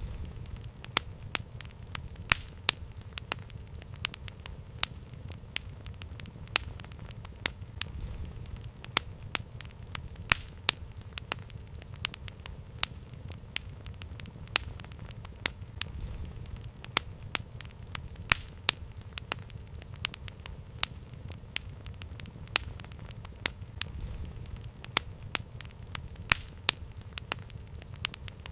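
Campfire burning, with frequent sharp, irregular crackles and pops over a steady low rumble.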